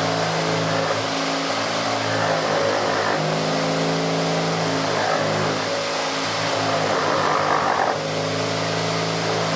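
Electric motor of a power tool running steadily with a constant hum, under a rough hissing noise that grows louder for about a second near the end.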